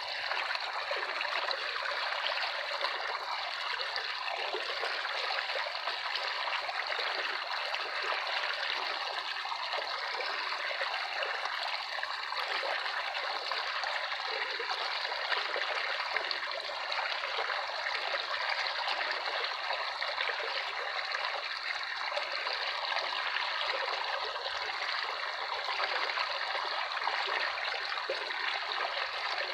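Running water trickling steadily and evenly, with no breaks or sudden splashes.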